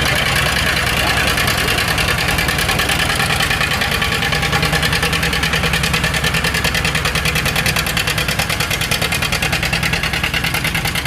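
Antique tractor engine running hard under load as it drags a weight sled, with a steady fast firing beat that throbs more strongly in the second half.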